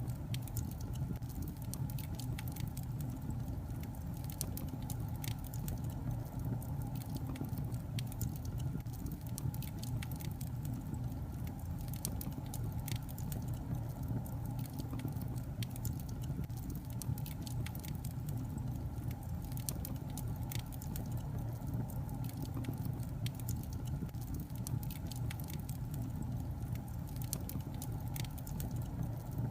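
Wood fire burning in a fireplace: a steady low rumble of flames with frequent small, sharp crackles and pops from the burning logs.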